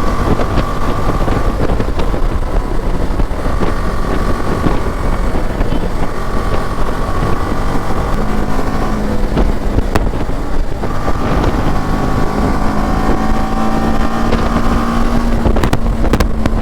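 BMW G 310 GS single-cylinder engine running at road speed under wind rush on the microphone, its note rising slowly in the second half. Several sharp clicks come near the end.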